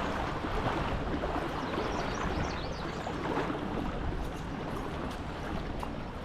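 Swollen, fast-flowing creek water rushing steadily.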